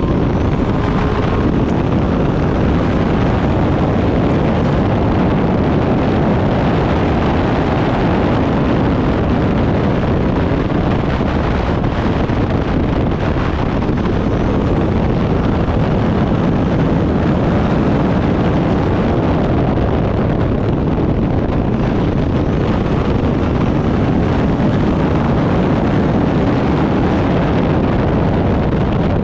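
Turbocharged Backdraft Cobra race car running hard around the circuit: loud, steady engine and road noise, with heavy wind buffeting on the microphone.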